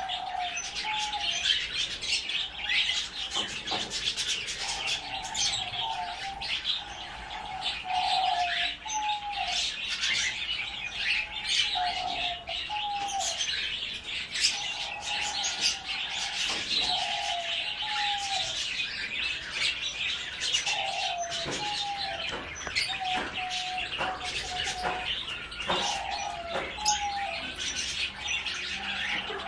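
Many small birds chirping busily together, with a lower call repeated every second or two, usually in pairs.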